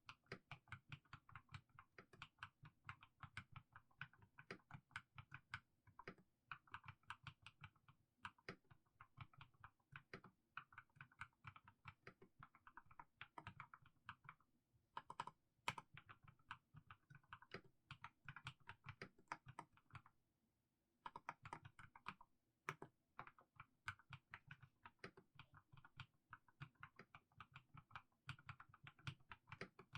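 Mechanical keyboard with fully lubed Haimu Sea Salt switches being typed on at a slow, even pace, a few keystrokes a second. There is a short break in the typing about twenty seconds in.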